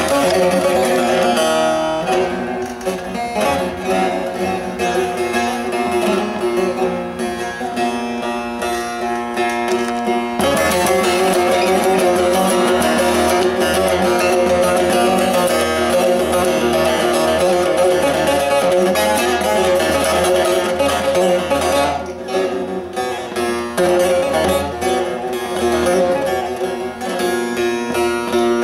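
Bağlama (saz) with a carved mulberry bowl played with quick picked and strummed notes, a fuller, louder stretch in the middle.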